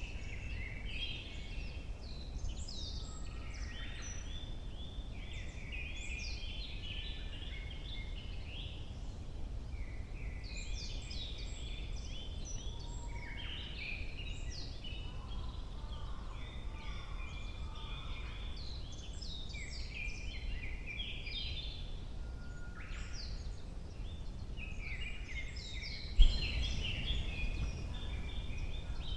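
Several songbirds singing in a forest in early summer, with phrase after phrase of rapid, high chirping notes overlapping against a steady low rumble. A single sharp knock near the end is the loudest sound, followed by a few seconds of heavier low rumble.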